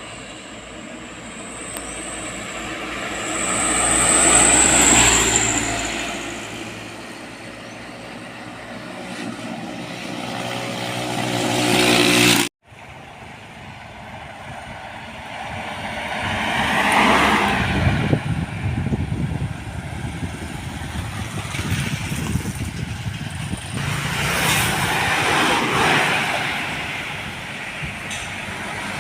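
Heavy trucks and other road vehicles passing one after another, each pass swelling up and then fading away. A sudden cut about twelve seconds in breaks the sound.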